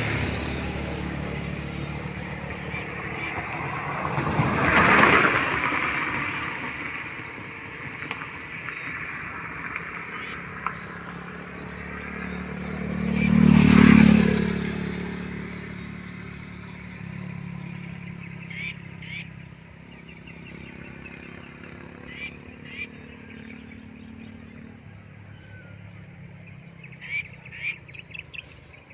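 Two motor vehicles pass by, one about five seconds in and a louder one about fourteen seconds in, each swelling and fading over a few seconds. Under them runs a steady high insect trill, with short chirps near the end.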